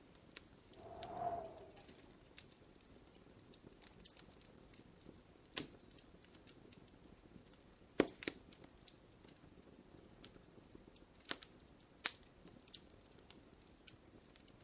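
Wood fire in a fireplace crackling, with irregular small ticks and a handful of sharper pops, the loudest about eight seconds in. A brief faint hum rises and fades about a second in.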